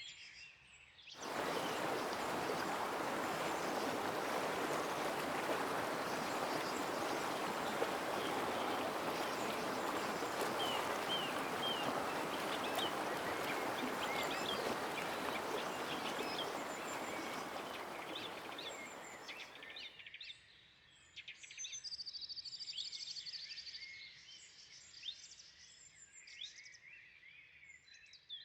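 Rushing water from a waterfall, a loud steady hiss that cuts in about a second in and cuts off abruptly about two-thirds of the way through. After that, quieter forest sound with songbirds chirping repeatedly.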